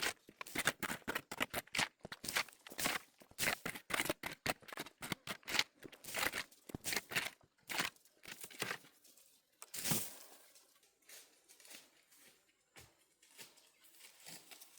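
A fast run of crackling and scraping noises, with one sharper knock about ten seconds in, after which it thins to scattered faint taps.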